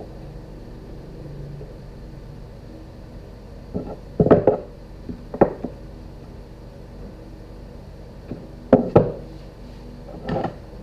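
Hard objects being handled and set down in a workshop: a handful of sharp knocks and clatters, two close together about four seconds in, another a second later, a pair near nine seconds and one near the end, over a low steady hum.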